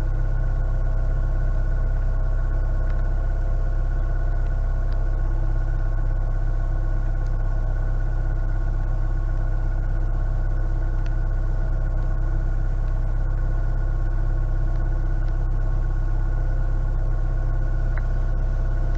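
Narrowboat's diesel engine running steadily at constant revs, an even low drone that does not change.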